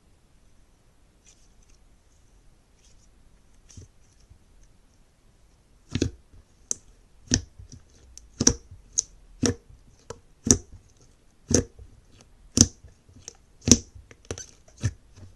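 Slime being handled, quiet at first, then a run of sharp clicking pops, roughly one to two a second, from about six seconds in.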